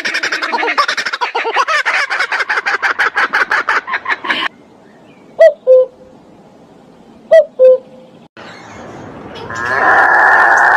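Bird calls played in sequence: a fast run of rapid repeated pulsed notes for about four seconds that stops abruptly, then two short two-note calls about two seconds apart. Near the end a different, steady sustained sound starts.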